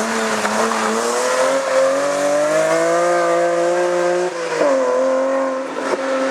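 Rally car engine pulling under load, its pitch climbing slowly, then a short drop in pitch about four and a half seconds in, after which it holds steady.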